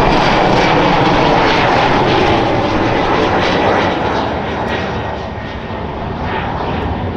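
Jet airliner's engines passing close overhead: a loud rush with a high whine that slowly falls in pitch, easing off about four seconds in before cutting off abruptly.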